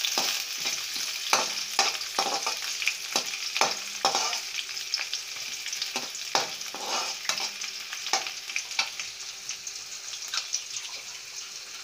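Chopped garlic and ginger frying in hot oil in a metal kadai with a steady sizzle. A perforated steel ladle stirs and scrapes against the pan, making irregular clicks and knocks that come more often in the first part.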